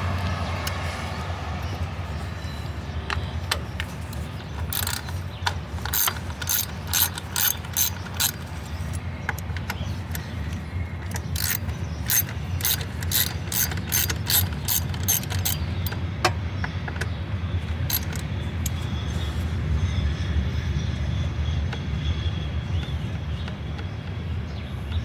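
Hand ratchet wrench clicking in two runs of strokes, about three clicks a second, as fasteners are loosened on a riding mower's engine, over a steady low hum.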